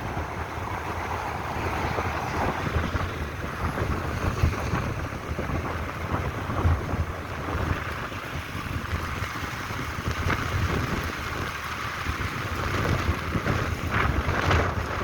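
Wind blowing in uneven gusts across the microphone, a low rumble with a hiss above it.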